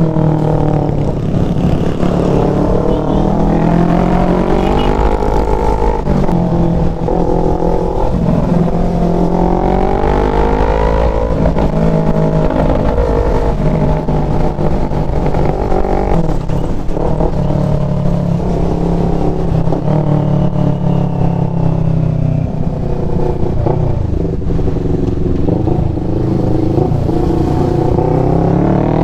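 CFMOTO NK400 motorcycle's engine running under way, its pitch rising and falling again and again as the bike accelerates and changes speed.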